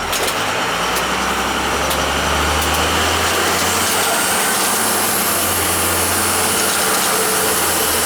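Steady road and engine noise of a moving vehicle heard from inside its cabin, with a low engine hum and a few light clicks in the first few seconds.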